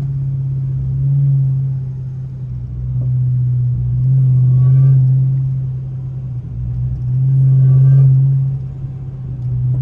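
Supercharged Hellcat V8 of an 800 hp Chrysler 300, heard from inside the cabin as a steady low engine drone while driving. It swells louder three times, about one, five and eight seconds in.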